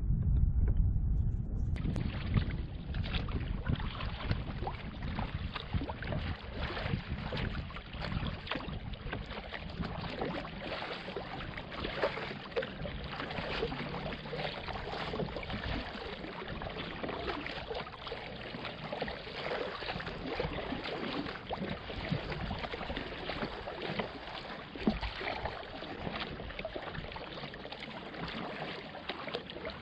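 Water splashing and lapping as a kayak is paddled, with many small splashes throughout. A low rumble fills the first two seconds and gives way abruptly to the water sound.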